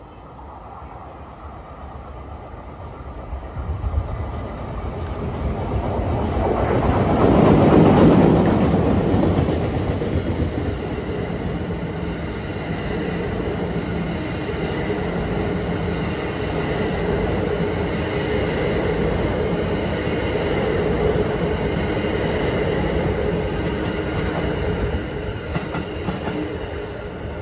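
Train made up of E233-series cars and new double-deck green cars passing close by: it grows louder as it approaches, is loudest about eight seconds in as the front goes past, then the cars keep rolling by with a steady rumble.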